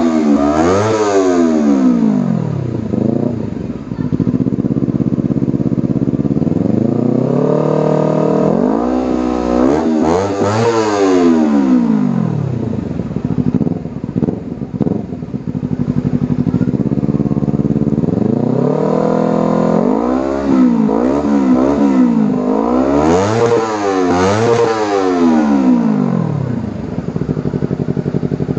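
Honda CBR250RR with an aftermarket Akrapovic exhaust, its engine idling and revved up and down in repeated throttle blips. There are several quick rev rises near the start, again in the middle and near the end, with steady idle between.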